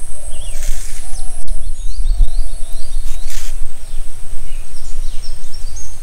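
Small birds chirping in a forest, in repeated short calls that fall in pitch, over a loud low rumble on the microphone and a steady high thin whine.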